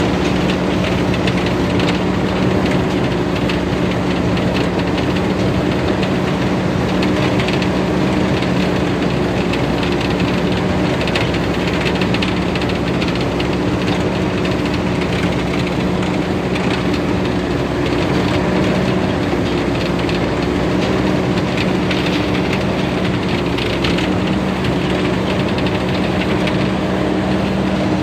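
TAMCO S9000 rice combine harvester's Hino J08C six-cylinder diesel running steadily at working speed, with the harvesting machinery clattering over the engine note. The engine note shifts slightly near the end.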